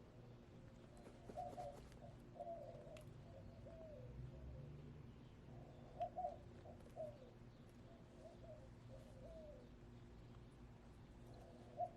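Backyard hens making soft, quiet, wavering calls in short groups every few seconds, the low murmuring of contented chickens, over a faint steady hum.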